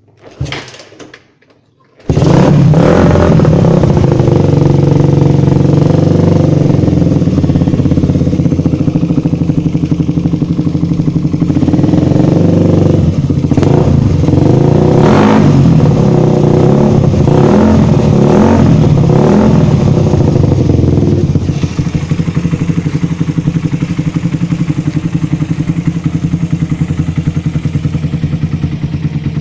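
Suzuki Satria FU 150 single-cylinder motorcycle engine through a stainless racing exhaust: after a few faint clicks it comes in loud about two seconds in and idles, is blipped with the throttle several times, then settles to a steadier, slightly quieter idle near the end.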